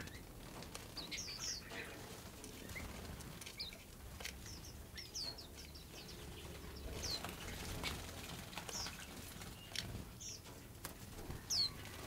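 Small birds chirping: scattered short, high, downward-sliding chirps every second or so, the loudest near the end, with a few sharp clicks between them over a low steady background rumble.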